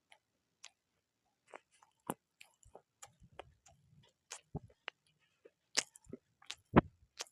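Close-miked chewing of crunchy food: irregular sharp crunches and crackles, sparse at first and coming more often in the second half, with the loudest crunch a little before the end.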